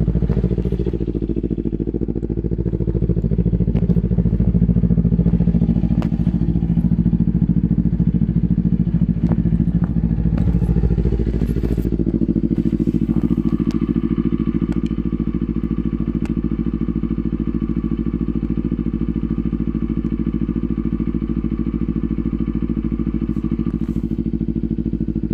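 Kawasaki Ninja 250 engine idling after a cold start. For about the first twelve seconds it runs a little louder and unevenly, then it settles into a steady idle.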